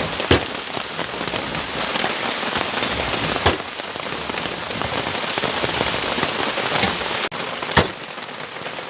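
Steady rain falling, a dense even hiss, with a few sharp clicks or knocks through it.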